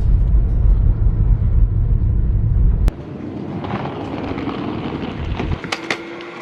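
Steady low rumble of a car driving on the road, cutting off suddenly about three seconds in. Quieter ambience follows, with a few sharp clicks near the end.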